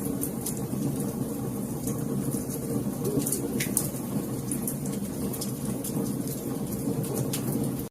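Wood fire in a fireplace crackling: frequent irregular sharp pops and snaps over a steady low rumble of burning.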